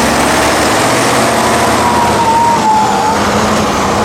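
Heavy off-road truck engine running hard, loud and dense, with a high whine for about a second near the middle that drops slightly in pitch.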